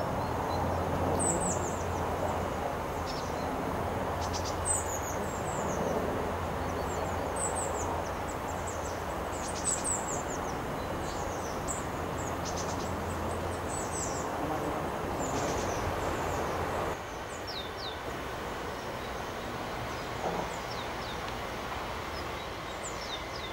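Tits calling: many short, high, thin notes that drop in pitch, coming in small runs every second or two. A steady low rumble sits underneath and falls away about three-quarters of the way through.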